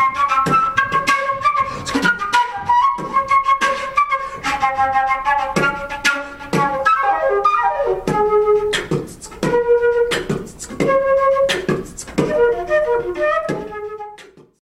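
Flute playing with beatboxing: a quick melody of short, shifting notes over sharp, regular percussive beats. The music cuts off near the end.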